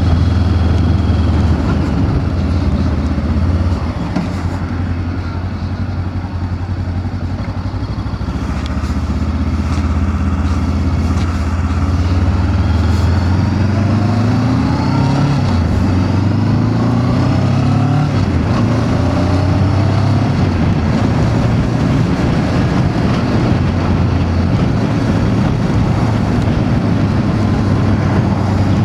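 Voge DS525X motorcycle's parallel-twin engine under way: it eases off about four seconds in, then pulls up through the gears with rising pitch in steps before settling into a steady cruise.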